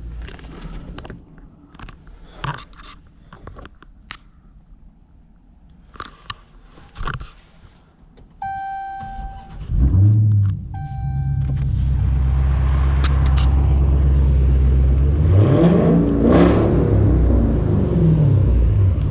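Car door and cabin clicks, then warning chimes. Then the supercharged Hellcat V8 starts with a loud flare and settles into a deep steady idle through its straight-piped exhaust, with the muffler and resonator deleted. One quick rev rises and falls near the end.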